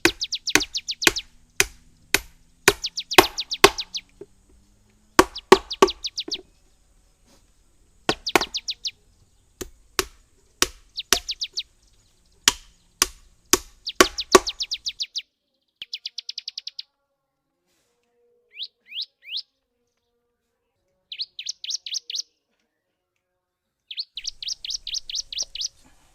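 A songbird gives repeated short bursts of rapid, high, falling notes, each burst about a second long. Over roughly the first fifteen seconds there are also many sharp knocks, often in quick runs, that stop partway through, leaving only the bird.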